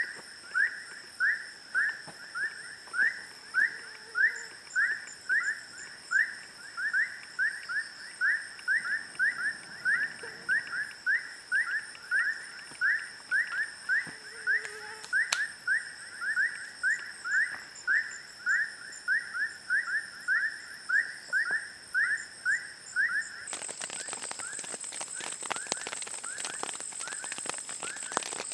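An animal call, a short rising note repeated about twice a second, over a steady high insect drone. A few seconds before the end the calls stop and rain falling with a crackle takes over.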